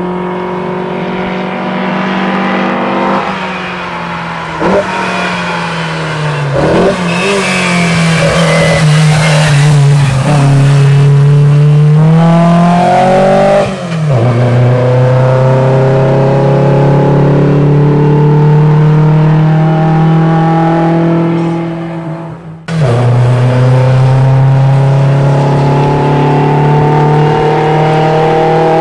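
Lancia car's engine pulling hard under acceleration, its pitch climbing steadily in each gear. The pitch drops sharply at an upshift about halfway through; after a brief break, another long pull climbs slowly.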